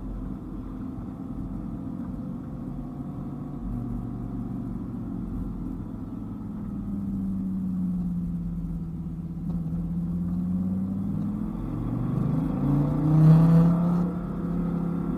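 Dodge Viper GTS's V10 engine pulling along under steady throttle, its note easing down in pitch midway, then rising and getting louder about 12 to 14 seconds in as it accelerates, over low road rumble.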